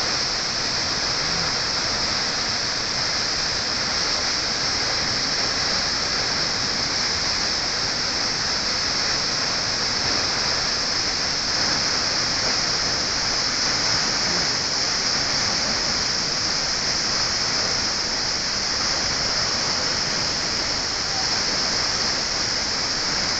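Kegon Falls, a tall plunge waterfall of about 97 metres, heard as a steady, unbroken rush of falling water.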